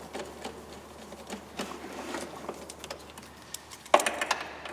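Light clicks and taps of tools and metal parts being handled, with a quick run of sharper clicks about four seconds in.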